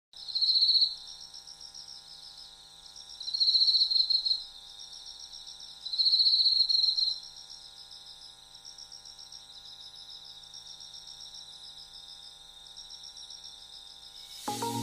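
Insects trilling in a steady pulsed chorus, with three louder trills over the first seven seconds. Music starts just before the end.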